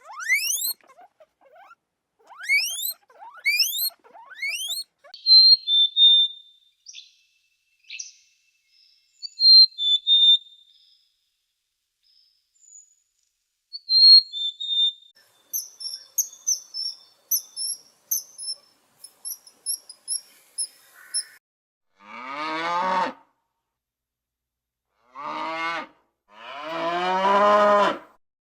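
A run of animal calls: quick rising chirps, then whistled notes and rapid high chirping, then three drawn-out calls with clear pitch, each arching, that sound like livestock lowing.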